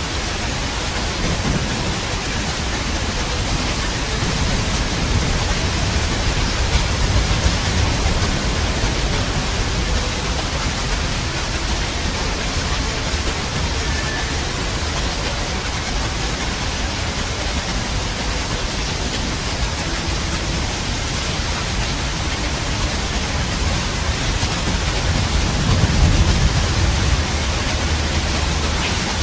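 Steady heavy rain with rolling thunder, rumbling louder twice, a few seconds in and again near the end.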